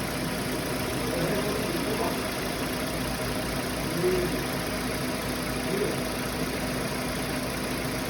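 Kia Forte's freshly overhauled four-cylinder engine idling steadily just after its first start.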